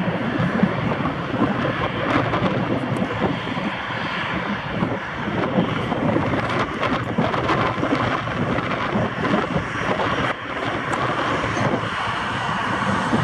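Airbus A380 jet engines, a loud, steady rushing noise.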